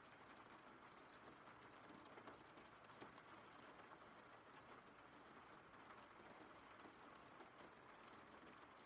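Faint, steady rain ambience, with scattered light drop ticks over an even hiss.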